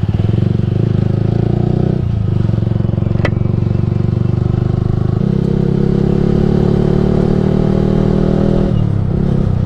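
Yamaha R15 v3's single-cylinder engine running under way through a Ronin Musashi aftermarket exhaust. The engine note breaks and changes pitch briefly about two seconds in, again around five seconds, and once more near the end, and there is a single sharp click about three seconds in.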